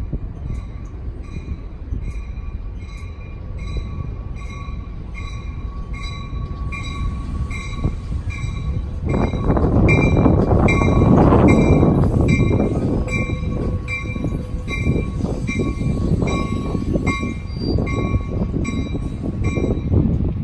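Caltrain passenger train passing through the station: heavy rumble of the train that swells sharply about halfway through and stays loud, over a bell ringing in steady, even strokes about every 0.7 seconds.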